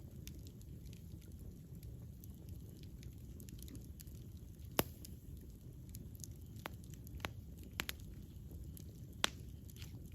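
Wood campfire burning: a steady low rumble of flames with scattered sharp crackles and pops, the loudest about five seconds in and another near the end.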